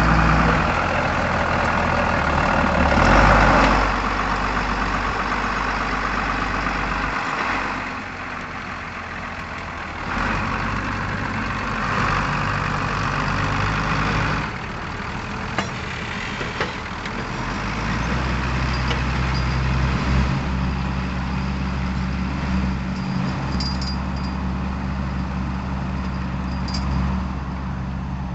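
Lamborghini R7 200 tractor's engine running steadily under load while ploughing, its level falling and rising again a few times.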